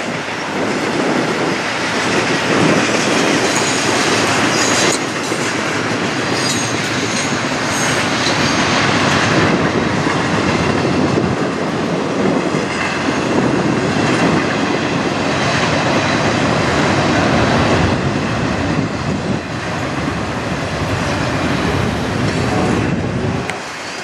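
Norfolk Southern double-stack intermodal train rolling past, its loaded well cars giving a steady rumble and rattle of steel wheels on rail, with clicking over the rail joints. A faint high wheel squeal comes and goes in the first half.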